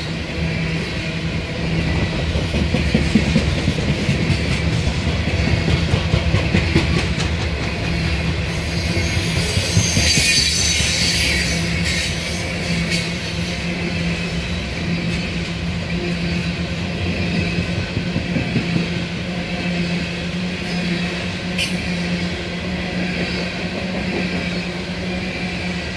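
Coal cars of a BNSF coal train rolling past at speed: a steady rumble and clatter of steel wheels on the rails, with a brief high-pitched wheel squeal about ten seconds in.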